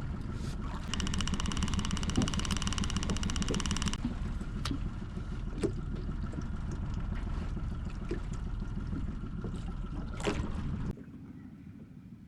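Fishing reel paying out line as a jig is dropped to the bottom, a fast whirring buzz for about three seconds, over a low rumble of wind and water around the skiff that cuts off near the end.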